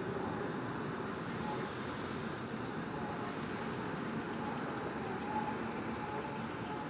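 Steady hum of city road traffic, an even wash of noise with no sudden events.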